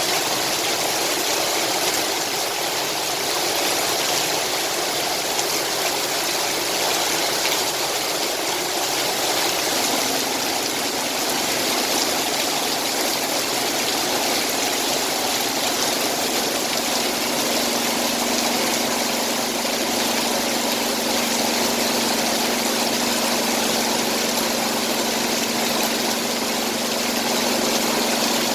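Heavy rain pouring down in a steady, even hiss. About a third of the way in, a steady low hum joins it and grows a little stronger later on.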